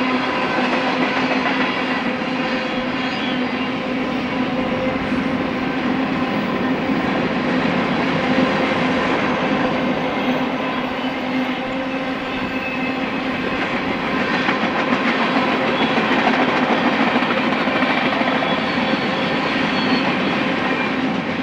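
Freight cars of a long mixed freight train, tank cars and covered hoppers, rolling past on the rails: a steady rumble and clatter of wheels with a steady ringing tone running through it.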